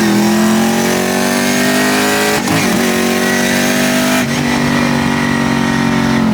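Twin-turbo 6.2 litre V8 in a Crown Victoria pulling hard through the gears with clutchless shifts. The ignition-cut shifter breaks the sound briefly at each change, about two and a half and four and a half seconds in, and the engine drops to a lower pitch after each one. Near the end the engine comes off the throttle.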